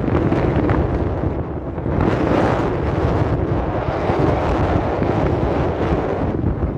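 Strong wind buffeting the microphone: a steady rushing noise with a deep rumble beneath it, swelling slightly about two seconds in.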